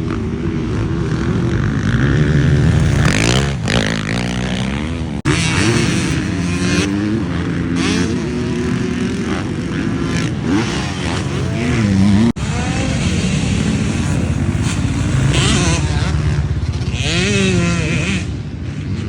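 Dirt bike engines revving up and down as the bikes ride, with the pitch rising and falling repeatedly. The sound breaks off abruptly twice, about five and twelve seconds in.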